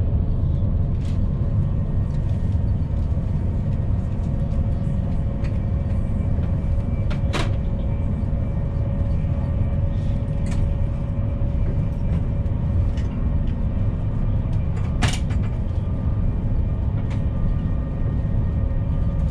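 Ride noise inside a DB ICE 1 high-speed train on the move: a steady low rumble with a faint steady hum over it, and a sharp click twice, about seven and fifteen seconds in.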